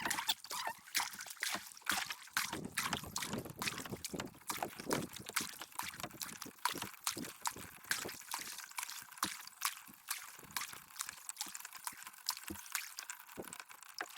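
Water splashing and trickling over rocks in shallow river rapids, a dense run of irregular small splashes.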